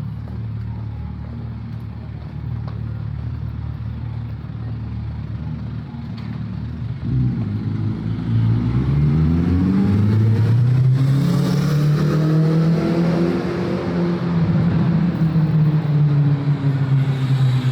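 Car engines running at a steady low note, then pulling away about seven seconds in, with the engine pitch rising and then holding.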